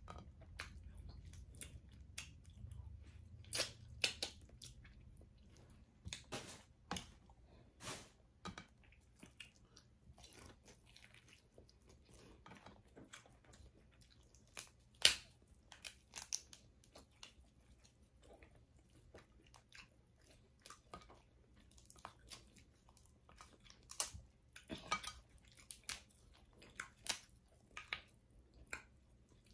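Chewing and mouth sounds of someone eating a seafood boil, with scattered sharp cracks and snaps of crab shells being broken open; one loud crack about halfway through.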